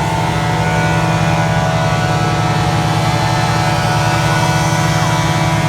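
Track dryer at a speedway running with a loud, even engine drone at a constant pitch.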